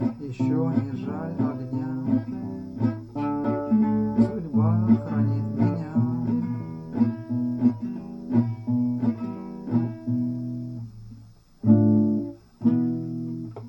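Acoustic guitar playing the song's closing chords, ending with two separate chords near the end that ring out.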